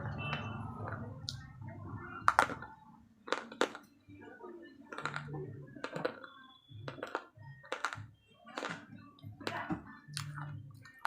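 Slate pencils bitten and chewed in the mouth: a series of sharp, dry crunches at roughly one a second, with softer chewing between them.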